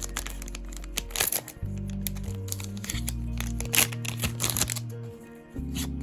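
Background music with a steady bass line, over which a foil booster-pack wrapper crinkles and tears in several sharp bursts as a pack is opened.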